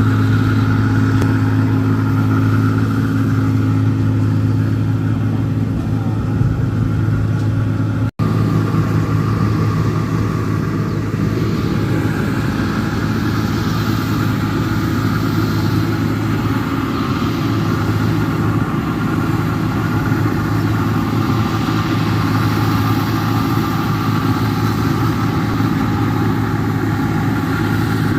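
New Holland 1545 combine harvester's diesel engine running steadily with a strong low hum. The sound breaks off for an instant about eight seconds in, and after that the engine's hum is weaker and a rougher, noisier machinery rattle takes over.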